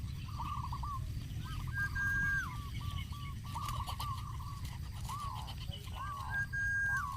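Birds calling: a quick series of short, arched calls, broken twice by a held higher note lasting about half a second, over a steady low rumble.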